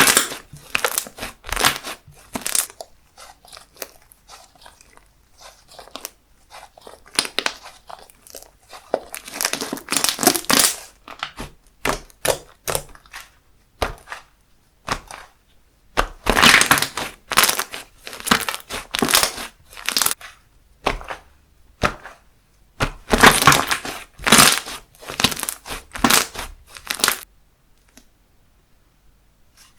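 Handmade slime squished, pressed and stretched by hand, giving irregular bursts of crackling and popping, with a short quiet pause near the end.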